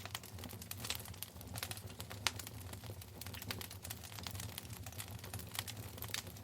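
Wood fire burning in a fireplace, crackling steadily with irregular sharp pops over a low rumble of the flames.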